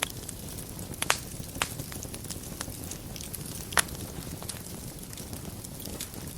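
Wood fire burning in a fireplace: a low steady rumble of flame with sharp crackles and pops, the loudest about a second in and near four seconds.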